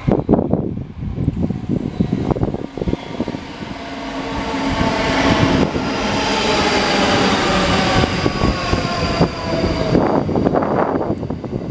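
A train passing through the station: its running noise swells from about four seconds in and holds, with a whine of several tones that slowly drops in pitch, then eases away. Gusts of wind buffet the microphone at the start and near the end.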